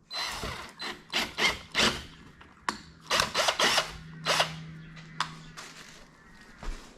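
Tools being worked and handled in the hood pin job: a string of irregular, ratchet-like rattles and clicks, then a faint steady hum from about four seconds in.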